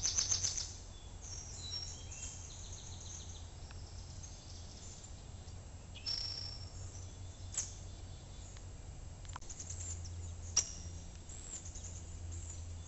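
Wild birds chirping, scattered short calls over a steady low hum, with a few brief clicks; the sharpest click comes late on.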